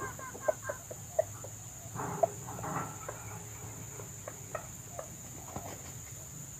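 Red junglefowl giving short, scattered clucks, the sharpest about half a second, a second and two seconds in, over a steady high insect drone.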